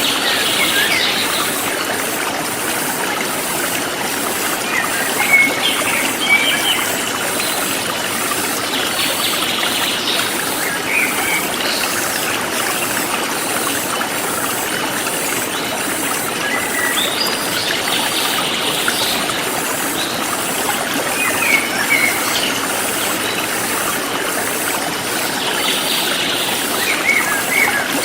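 Forest stream flowing steadily, with small birds chirping briefly every few seconds and a regular high-pitched insect pulsing throughout.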